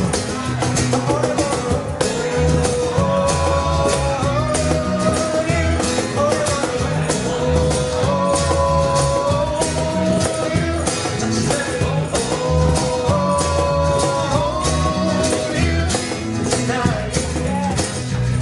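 Live band playing a song on cajon, guitar and bass, with a steady percussive beat and a melody line held above it.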